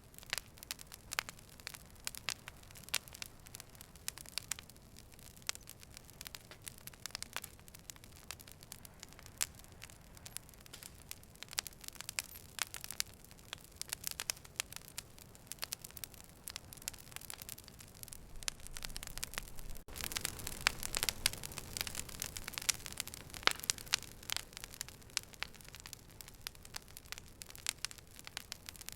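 Fire crackling: irregular sharp crackles and pops over a soft hiss. It grows denser and louder about two-thirds of the way through, then settles back.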